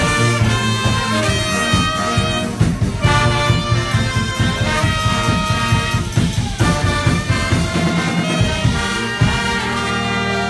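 Live brass band playing a tune with trumpets, trombones and saxophone over a drum beat. About nine seconds in the drums stop and the horns hold a long chord.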